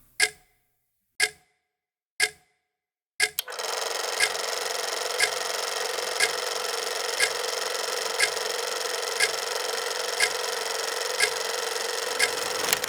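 A clock ticking about once a second. A little over three seconds in, a steady hiss comes in underneath and the ticking carries on.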